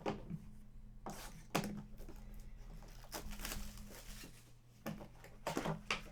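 Trading cards and their packaging being handled and opened: irregular crinkling, tearing and rustling with short clicks of cards being shuffled and set down.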